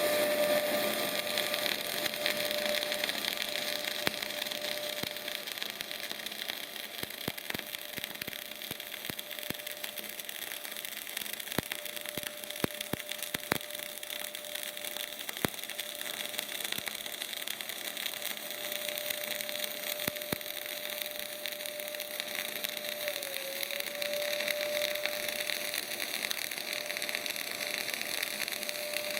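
Semi-automatic MAG/CO2 arc welding: the arc burns with a steady crackling hiss over a steady hum, with a scattered run of sharper pops in the first half.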